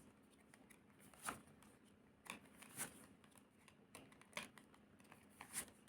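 Tarot cards being handled on a table: about five soft, brief card taps and slides against near silence.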